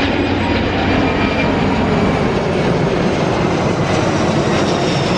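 Fixed-wing aircraft engine noise, loud and steady, with faint high tones coming in near the end.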